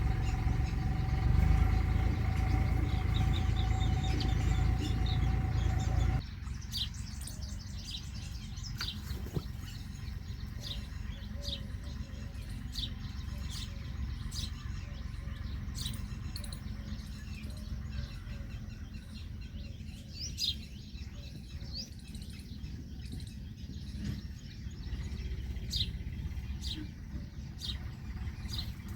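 A loud low rumble carrying a steady hum cuts off abruptly about six seconds in. After it, small birds chirp for the rest of the time with many short, high calls.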